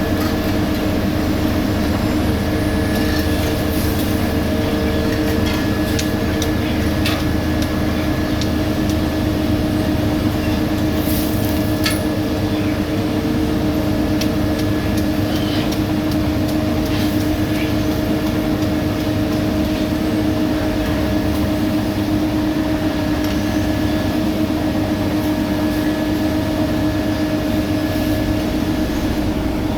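Heavy diesel road-construction machinery, such as an asphalt paver, running steadily with a constant whine over a low engine rumble and scattered light clanks.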